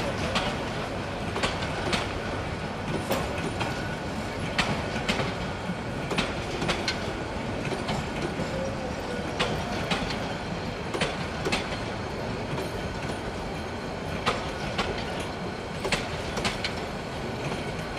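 Passenger coaches of an intercity train rolling past with a steady rumble, their wheels clicking irregularly over the rail joints about once or twice a second.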